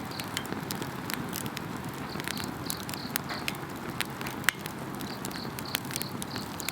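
Wood campfire crackling and popping in a fire grill, with one loud pop about halfway through. Insects chirp behind it in short runs of high pulses.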